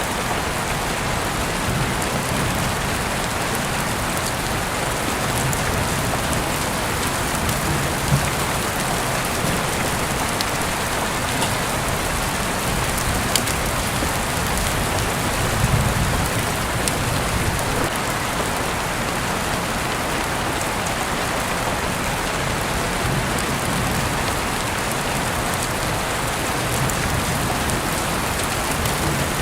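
Heavy rain falling steadily, an even hiss with scattered sharp drip and patter ticks, as heard through an open window.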